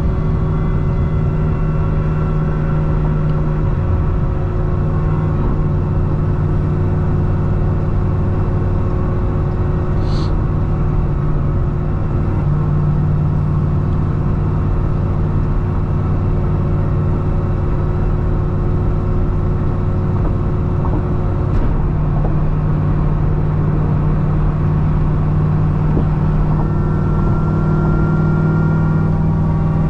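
Supercharged 6.2-litre V8 of a C6 Corvette ZR1 with a Kong 2650 supercharger, running at a steady highway cruise with an even drone.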